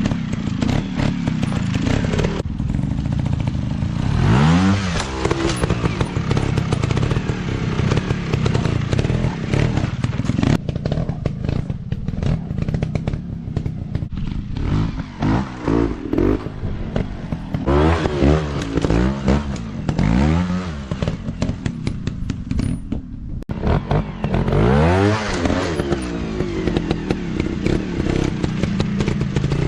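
Off-road dirt bike engines running and being revved in repeated sharp throttle blips, the pitch rising with each rev, with clusters of revs in the middle and near the end.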